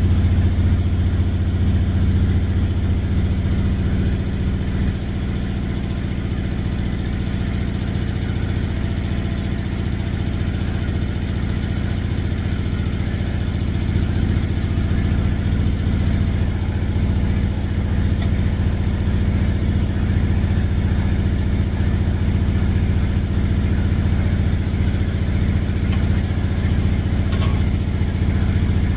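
Engine of a sawmill edger idling steadily with a low, even hum.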